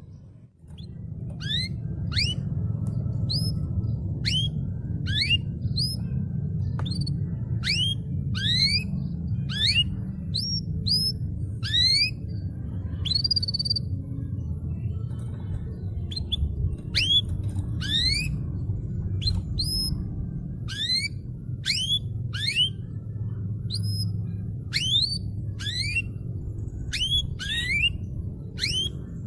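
Canary singing: a long run of quick rising whistled notes, about two a second, over a steady low rumble.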